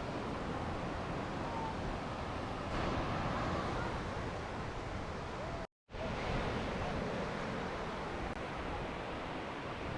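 Steady wind and sea noise, a rushing hiss of wind and waves, broken by a sudden cut to silence for a moment about halfway through.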